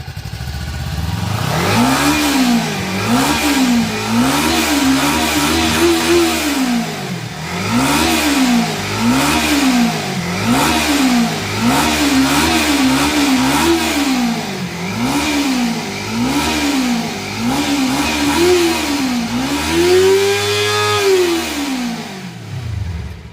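Kawasaki Ninja 300's parallel-twin engine, on its stock exhaust, being revved while standing: a string of about a dozen quick throttle blips, some in rapid pairs and triples, rising and falling in pitch. About 20 s in it is held for one longer, higher rev before it drops back to idle.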